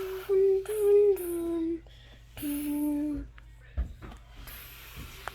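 A voice humming long held notes, each sliding slightly lower at its end, with breathy hisses between them; the notes come in the first two seconds and again about two and a half seconds in.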